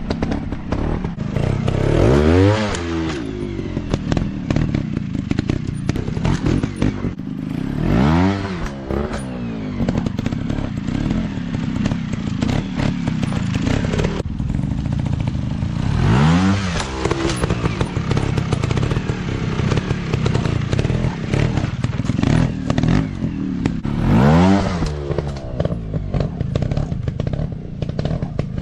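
Dirt bike engines running steadily, with the engine revving up and falling back four times, about every eight seconds.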